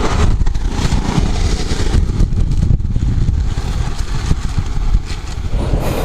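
Motorcycle engine running while riding, with a rough, steady rumble of engine and wind noise.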